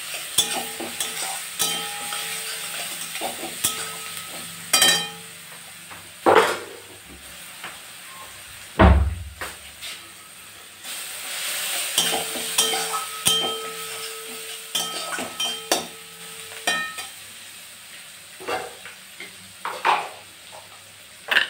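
Onion and garlic paste sizzling in hot oil in a kadai while a spatula stirs, scraping and knocking against the pan again and again. There is a heavy dull thump about nine seconds in.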